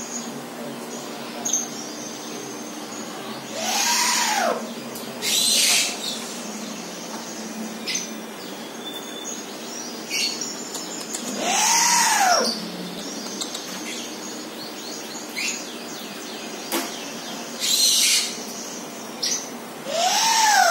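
A bird's harsh screeching calls, three of them about eight seconds apart, each rising and falling in pitch, with shorter hissing rasps in between.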